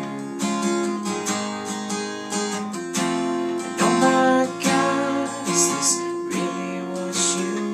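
Acoustic guitar strumming chords, a steady run of strokes with no singing over it.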